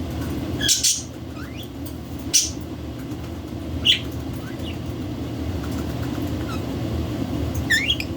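Pet budgies and cockatiels giving short, spaced-out chirps and squawks, with a pair of quick rising chirps near the end, over a steady low background hum.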